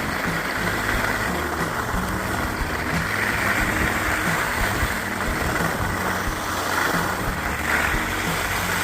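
Skis scraping steadily over hard-packed groomed snow on a downhill run: a continuous rough hiss, the sound of hard pack.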